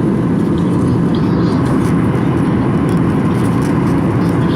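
Steady low cabin noise of a jet airliner in flight on approach: engines and rushing air, unchanging in level.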